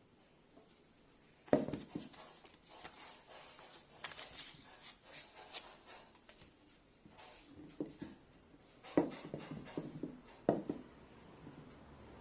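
Hand work on wood at a bench: a sharp knock about a second and a half in, then rubbing and scraping, and two more sharp knocks near the end.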